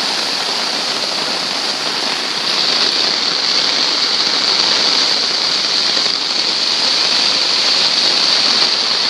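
Loud, steady rush of floodwater from an overflowing creek running through a yard.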